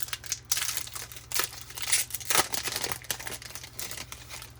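Foil wrapper of a 2020 Topps Series 1 baseball card pack being torn open and crinkled by hand: an irregular run of crackling rustles that thins out near the end.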